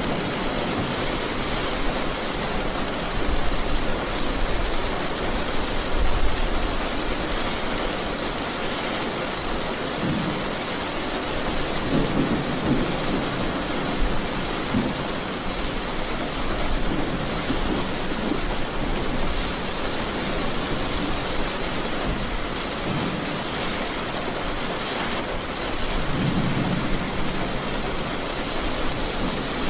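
Steady heavy rainfall with low rolls of thunder rumbling in and out, swelling twice: around the middle and again near the end.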